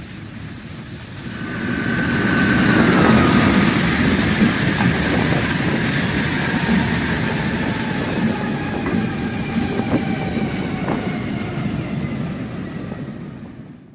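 A train passing at speed, a steady rumble with wheels clicking over the rail joints. It builds over the first couple of seconds, a high tone drops in pitch about two and a half seconds in, and it fades out near the end.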